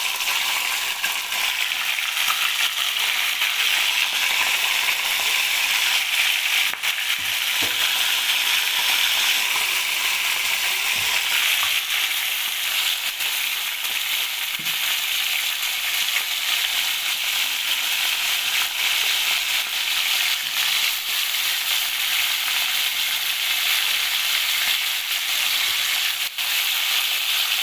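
Fish frying in hot oil, sizzling steadily and continuously.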